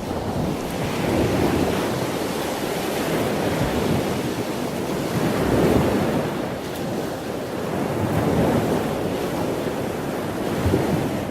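Ocean surf washing onto a beach, a steady rush that swells and eases every few seconds.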